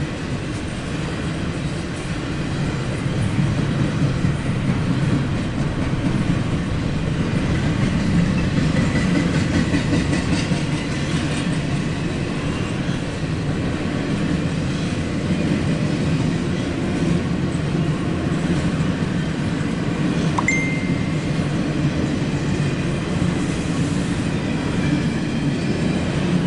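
CSX intermodal freight train rolling past, a steady rumble of steel wheels on rail. A brief high-pitched tone sounds about twenty seconds in.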